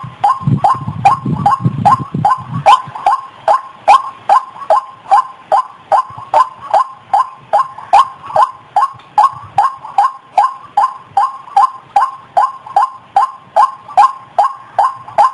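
White-breasted waterhen (ruak-ruak) calling: a steady, unbroken run of short, downward-sliding notes, about three a second, played as a lure call. A low rumble sits under the first couple of seconds.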